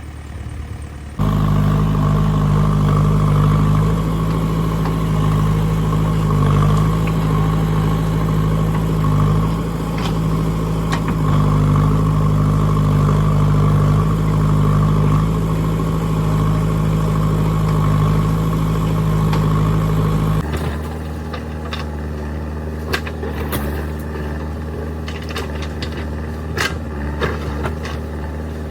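JCB 3DX backhoe loader's diesel engine running, starting abruptly about a second in and staying loud and steady with small rises and dips. About twenty seconds in it changes abruptly to a quieter engine sound with scattered sharp knocks and clanks.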